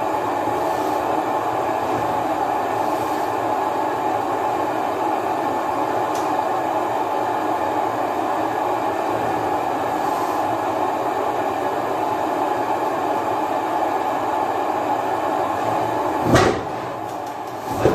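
Blowtorch burning with a steady roaring hiss as it heats the hot bulb of an old oil engine before a cold start. Two sharp knocks near the end, with the hiss briefly dropping between them.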